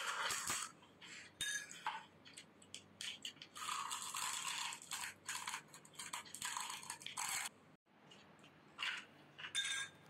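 Crisp panipuri shells crunching as they are chewed, in irregular bursts with short pauses and a longer stretch of crunching in the middle.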